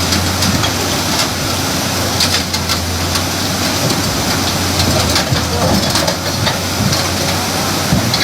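A heavy vehicle's engine running steadily, as a low constant hum under a loud even noise, with scattered faint clicks.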